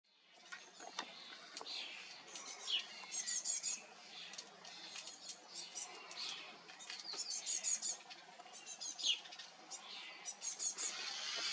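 Small songbirds chirping and calling, with repeated quick high trills and a few short falling whistles. A soft hiss builds near the end.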